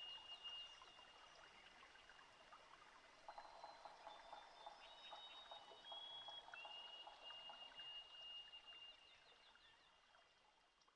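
Faint creek ambience: trickling water with long, steady high-pitched calls of small animals over it, fading out toward the end.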